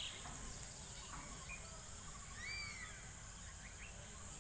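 Rural outdoor ambience: a steady high-pitched hiss with low rumble, and a couple of short bird calls about two and a half seconds in.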